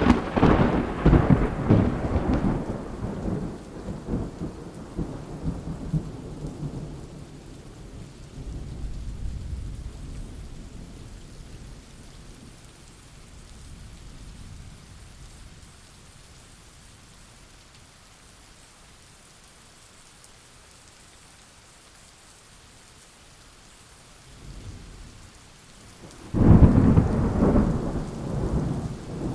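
Thunderstorm recording: a sharp thunderclap at the start rolls into a long rumble that fades over several seconds, with rain hissing steadily underneath. A quieter roll follows, then near the end a second loud clap of thunder rumbles again.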